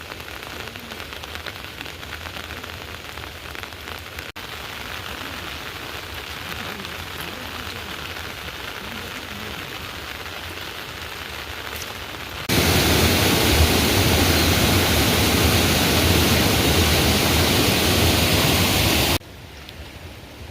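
Steady heavy rain falling. About two-thirds of the way in, a much louder, denser downpour sound cuts in suddenly, runs for several seconds, then cuts off just as suddenly, leaving the quieter rain again.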